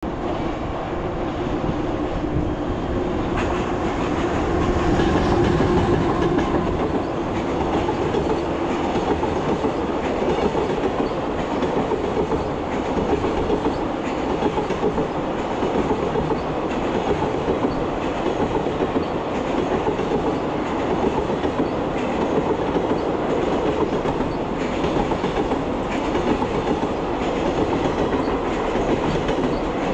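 Freight train of Koki 100-series container wagons hauled by an EH500 electric locomotive running past close by: a steady rumble of steel wheels on rail with a clickety-clack of wheels over rail joints, a little louder about five seconds in.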